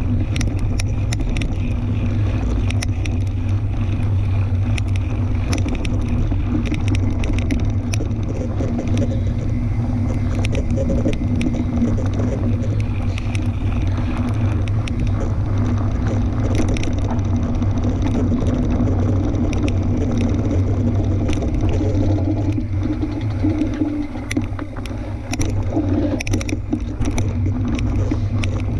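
Fat-tyre tandem bike rolling along a dirt trail: a steady low rumble with frequent sharp clicks and rattles, easing briefly a little before the end.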